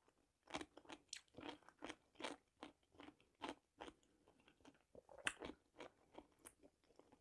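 Faint, close-miked chewing of crisp pickled cucumbers: a string of small wet crunches, roughly two a second.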